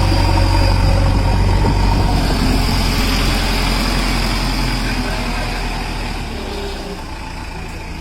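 A vehicle engine running steadily with a low hum, which eases off about five to six seconds in.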